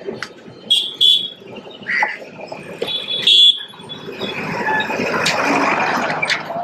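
City street traffic: a vehicle passes close, swelling and fading over the last couple of seconds. Earlier come short high-pitched tones, loudest about three seconds in, along with scattered clicks.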